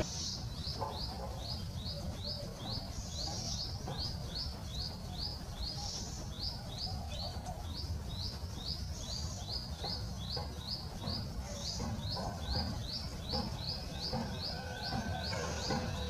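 A bird repeating a short rising chirp over and over at an even pace, about two or three a second. A second, higher call comes in every few seconds, over a low steady background hum.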